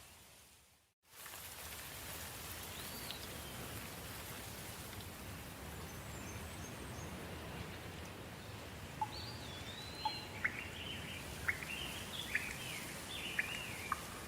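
Steady hiss of soft rain that cuts out to silence for a moment about a second in, then resumes. Birds call over it: a single chirp a few seconds in, then a run of quick, sharp chirps in the last third.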